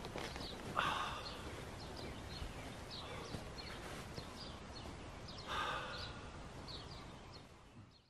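Small birds chirping in short, repeated high calls, with two louder swells of noise, one about a second in and one around six seconds. The sound fades out at the end.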